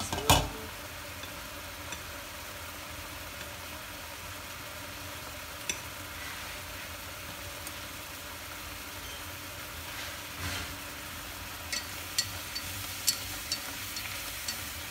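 Fish pieces and ginger sizzling gently in oil in a stainless steel pot, a steady low hiss. A sharp knock comes right at the start and is the loudest sound, a duller bump follows around ten seconds in, and near the end chopsticks click lightly against the pot as the fish is stirred.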